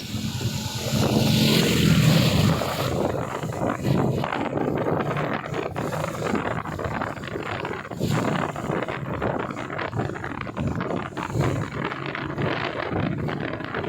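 Rain falling in a steady, crackling patter, swelling into a louder rush about a second in.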